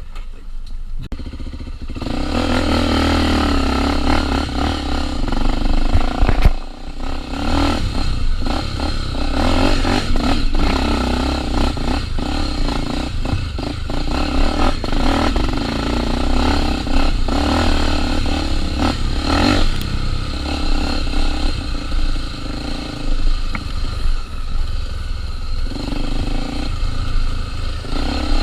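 Single-cylinder trail motorcycle engine working up a steep, winding dirt climb, revs rising and falling, with knocks and rattles from the bike over rough ground. It is quieter for the first two seconds, then louder, with one sharp loud knock about six seconds in.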